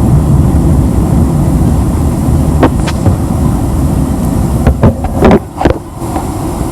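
Loud, steady low rumble of a vehicle in motion, with a few short knocks or clatters between about two and a half and six seconds in, where the rumble briefly drops.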